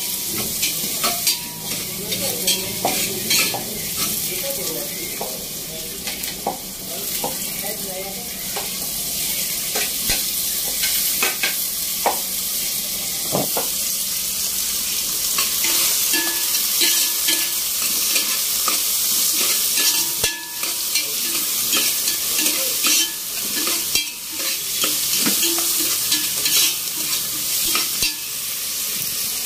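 Ginger, onion and tomatoes sautéing in hot oil in a pot, sizzling steadily, while a utensil stirs them with frequent scraping clicks against the pot.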